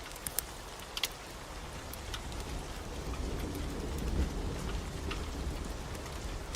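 Steady rain with the sharp pops of a crackling wood fire. A low rumble of thunder builds from about three seconds in.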